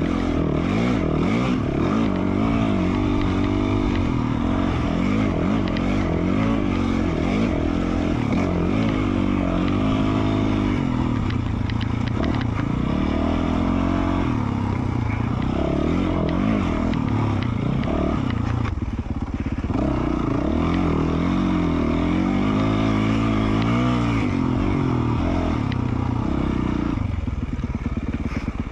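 2020 Yamaha YZ450F's single-cylinder four-stroke engine running through an FMF Q4 slip-on exhaust, rising and falling in pitch over and over as the throttle is opened and rolled off, with a brief easing about two-thirds of the way through.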